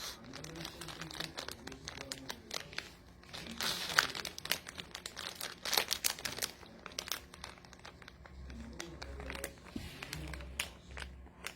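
A Pomeranian eating plantain chips out of a plastic snack bag: irregular crinkling of the bag and sharp, crisp crunches and snaps at uneven intervals.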